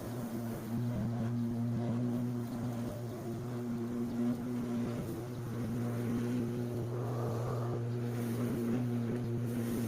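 Small petrol engine running steadily at a constant speed, an even droning hum, as of a lawn mower cutting grass.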